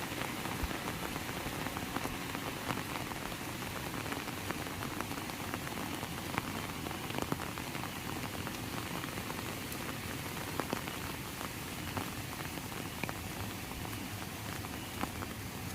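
Heavy rain falling steadily, a dense even hiss with scattered sharper ticks of individual drops striking close by.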